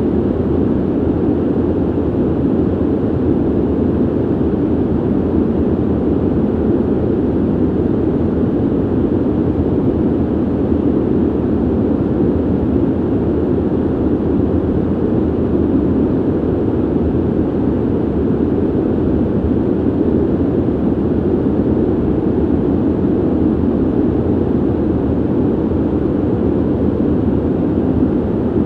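Ventilation noise: a steady, deep rush of air that stays even throughout, with no tones, clicks or changes.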